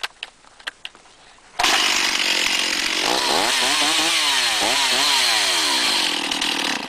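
Stihl two-stroke chainsaw running, cutting in suddenly and revved up and down several times before cutting off abruptly; the chain is being run after re-tensioning. Light handling clicks come before it.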